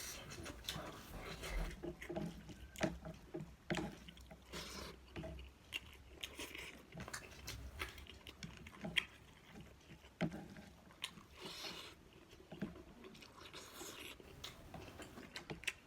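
A person chewing and biting food close to the microphone, with irregular mouth clicks and short crunches.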